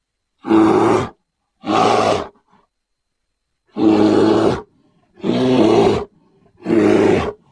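Grizzly bear roaring: five short roars, each under a second, with dead silence between them.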